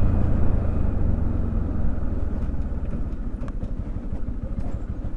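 Motorcycle engine running with a steady low, fast pulsing, gradually getting quieter.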